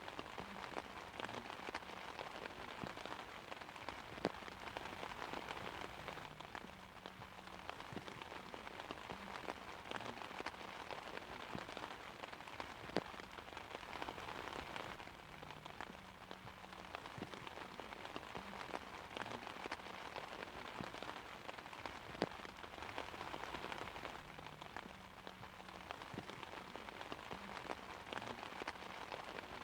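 Steady rain falling on an umbrella: an even patter with louder single drops striking now and then.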